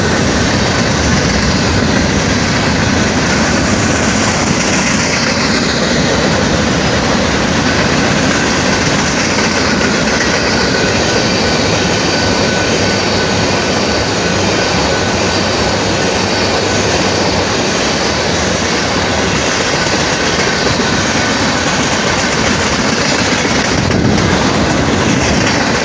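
A train passing close by at a grade crossing: a loud, steady rush and clatter of wheels on rails, with faint thin squeals from the wheels running over it.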